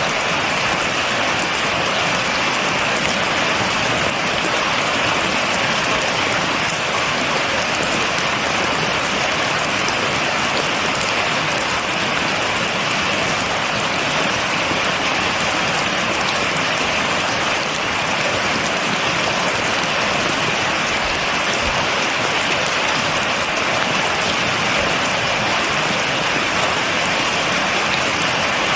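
Steady, heavy rain falling on a surface: a dense, even hiss thick with fine drop ticks, without thunder.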